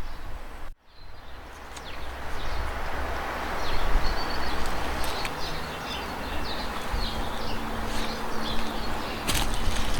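Small fire of waste wood offcuts burning in a brick fire pit: a steady rushing noise with scattered sharp crackles and pops.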